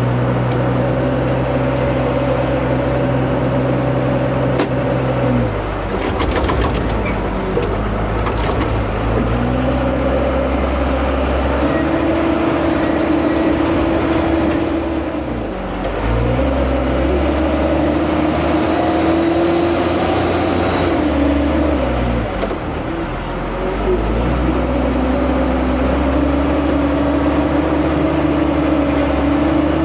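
Diesel engine of heavy earthmoving equipment working under load. Its note drops and climbs again several times as the machine slows, shifts and pulls.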